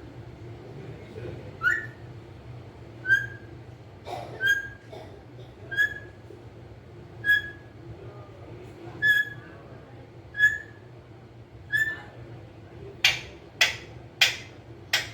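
Parrot whistling a short upward-sliding note over and over, about one every one and a half seconds, then letting out four loud, harsh screeches in quick succession near the end.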